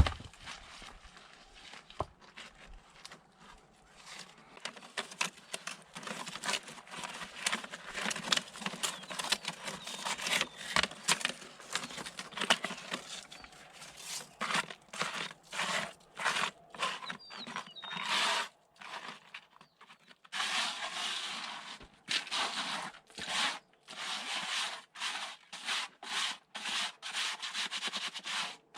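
Repeated scraping and rubbing strokes, irregular at first and settling into a steady rhythm of about two to three strokes a second in the second half.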